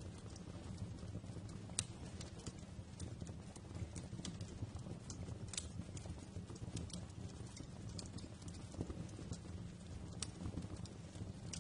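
Wood fire crackling in a fireplace: irregular sharp pops and snaps, a few of them louder, over the steady low rumble of the flames.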